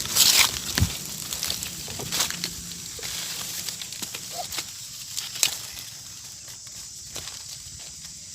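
Mango leaves and twigs rustling and crackling as they are handled, with a hissy rush at the start and a few sharp snaps or clicks.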